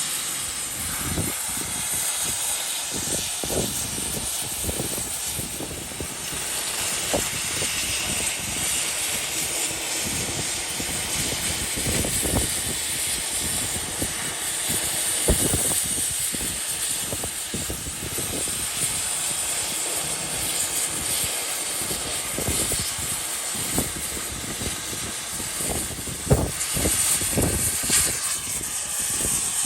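Oxy-fuel gas cutting torch hissing steadily, with irregular crackles and pops as it cuts steel.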